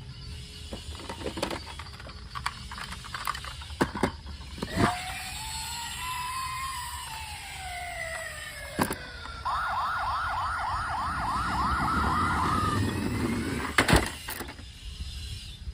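Toy emergency vehicle's electronic siren: a slow rising-and-falling wail, then a fast warbling yelp for about three seconds. Scattered clicks and knocks come at the start and near the end.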